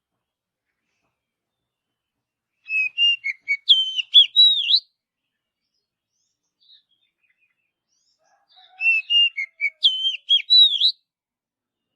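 Oriental magpie-robin (kacer) singing: the same phrase of quick, varied whistled notes twice, about six seconds apart, with silence between.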